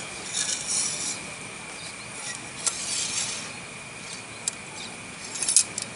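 Parts of a clamp-style knife sharpening jig being handled and fitted together: light rubbing and scraping with a few sharp clicks.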